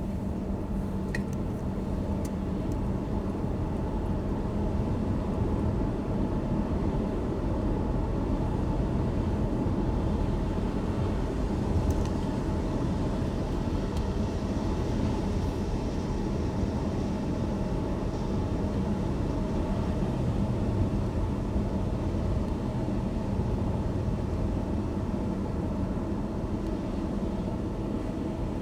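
A car driving on a rain-wet road: steady low road and engine rumble with a faint hiss of tyre noise, and a few faint clicks.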